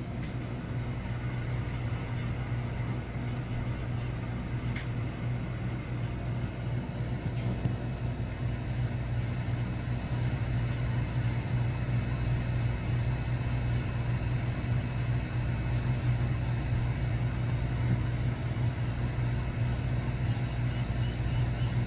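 Steady low mechanical rumble, slowly growing louder.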